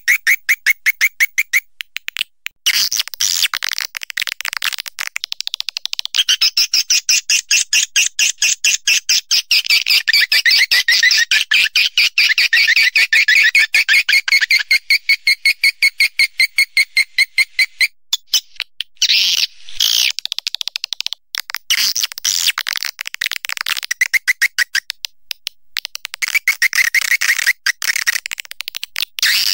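Recorded swiftlet calls of the kind used as a swiftlet-house lure sound: a rapid, buzzy chatter of many quick clicks and chirps, high-pitched. It breaks off briefly a few times.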